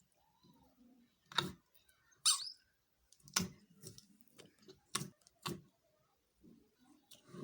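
Slime being squished and pressed in the hands, giving a handful of sharp pops and clicks about a second apart with quiet between them.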